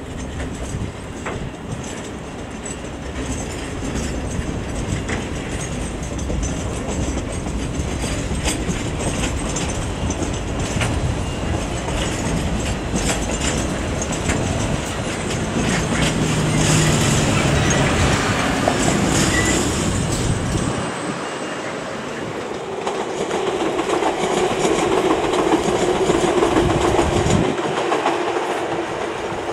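Empty container flat wagons of a KiwiRail freight train rolling past, wheels clicking and clattering over the rail joints. About two-thirds of the way through the sound changes abruptly to an Auckland Transport AM class electric multiple unit approaching with a steady motor hum.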